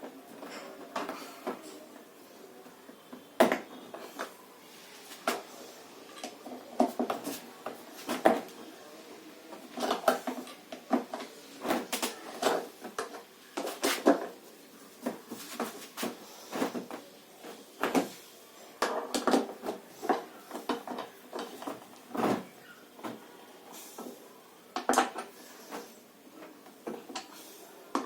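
Irregular metallic clinks, knocks and scrapes of hand tools against the metal parts of a top-load washing machine's gearbox mechanism as a part is tightened, at uneven intervals with short pauses.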